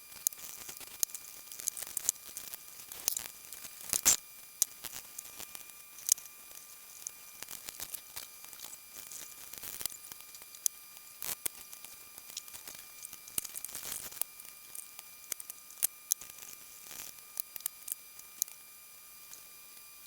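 Irregular light clicks and taps of engine parts and tools being handled on a workbench, over a faint steady hum.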